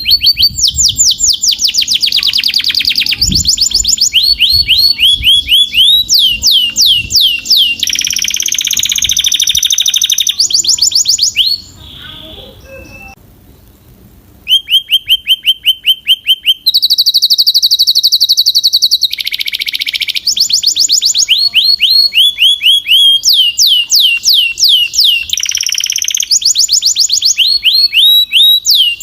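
Domestic canary singing a loud, fast song of rapid repeated trills and sweeping high notes, with a break of about three seconds near the middle.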